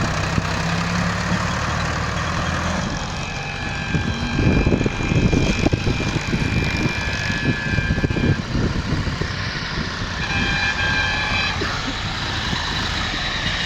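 A vehicle engine idling steadily, then a few seconds of irregular low rumbling and bumping from about four to eight seconds in, with steady high-pitched tones over it at times.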